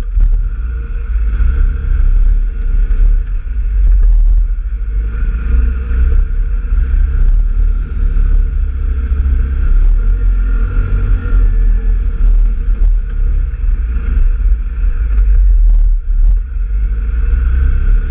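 Off-road vehicle engine running steadily under way, with a heavy low rumble and scattered short knocks.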